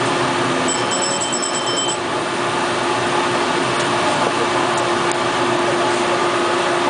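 TTC Yonge line subway train's steady noise with a constant low hum. About a second in there is a brief rapid series of high beeps.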